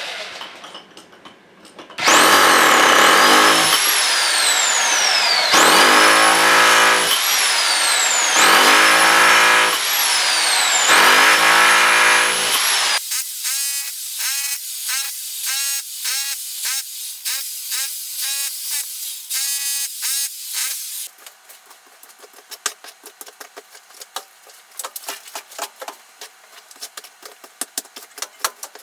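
A power tool run in four bursts of about three seconds each, its pitch jumping up at the start of each burst and then sagging as it works. After that comes a long run of quick, even clicking that grows faint.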